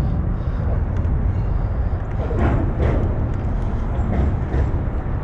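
Wind buffeting the microphone during a bike ride: a loud, steady low rumble.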